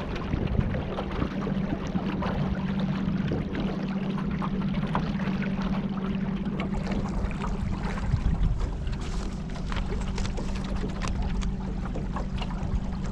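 A boat's motor humming steadily over water, with short splashes and drips, more of them in the second half.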